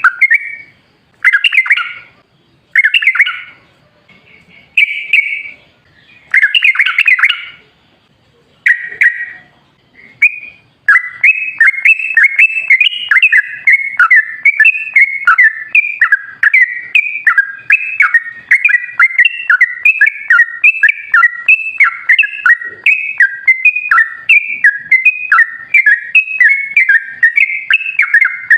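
Yellow-vented bulbul (trucukan) song: separate short bubbly phrases with gaps between them for the first ten seconds, then, from about eleven seconds in, an unbroken run of quick chattering notes.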